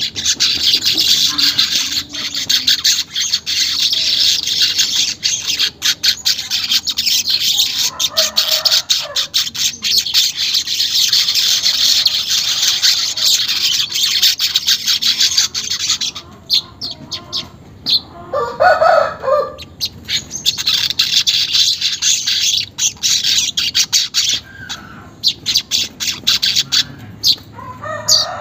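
Manyar weaverbirds chattering: a dense, rapid, buzzy churring song that runs for about sixteen seconds, breaks off, and resumes in a shorter burst later. A lower, separate call sounds about two-thirds of the way through, during the break.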